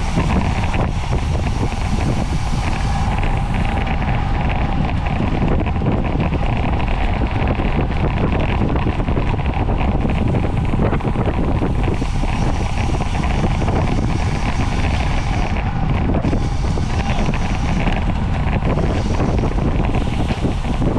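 Steady wind rushing over a camera microphone on a bicycle at racing speed, with a low road and tyre rumble beneath it.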